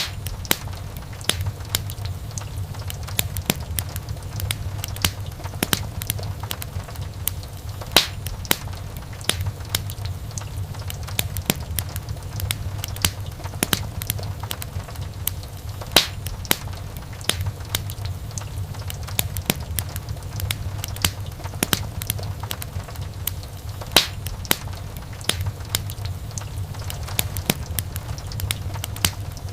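Wood fire crackling: a dense run of sharp pops and snaps over a steady low rumble of burning, with a few much louder pops.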